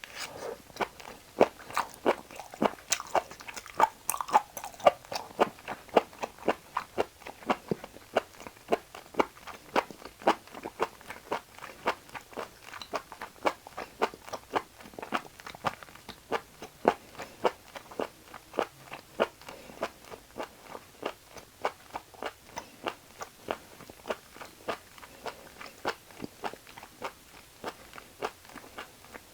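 Close-up chewing of beef offal, a steady run of crunchy, moist chews at about two a second, a little louder in the first few seconds.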